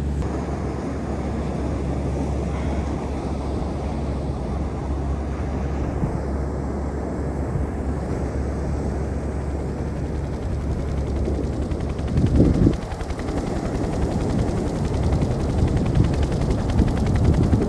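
Strong wind buffeting the microphone as a steady low rumble, with a louder gust about twelve seconds in.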